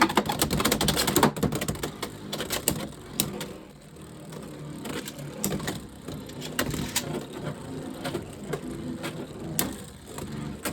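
Beyblade X spinning tops whirring in a plastic stadium, with many sharp clicks and knocks as they clash with each other and the stadium walls. The clashing is densest in about the first second and a half, then turns into scattered hits.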